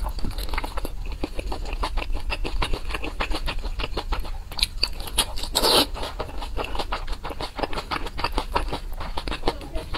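Close-miked chewing of a pan-fried dumpling: rapid, irregular wet smacking and clicking of mouth and filling. There is one brief louder rush of noise just past halfway.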